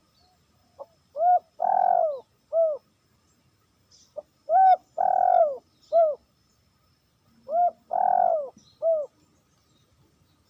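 A dove cooing in three phrases a few seconds apart, each a short note, a longer rolling note and a short closing note.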